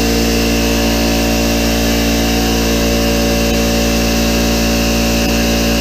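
Harbor Freight Central Pneumatic electric air compressor running steadily, its motor and pump pumping up the tank at low pressure, around 30 PSI.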